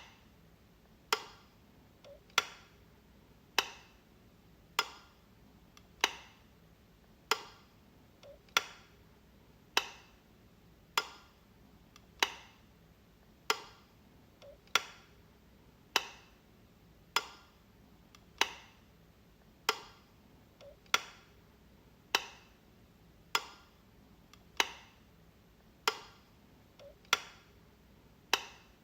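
Light switch clicking, one sharp click a little more than once a second at a steady pace, with a fainter, softer click between two of them about every six seconds.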